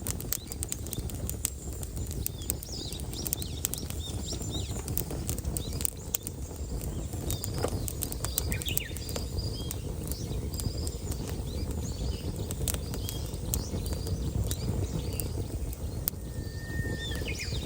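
Rain dripping and pattering in irregular ticks over a low steady rush, with small birds chirping now and then and a brief thin whistle near the end.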